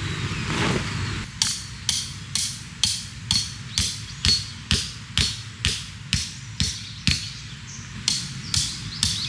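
Steady hammering, about two blows a second, each with a short metallic ring, starting a second or so in and pausing briefly near the end.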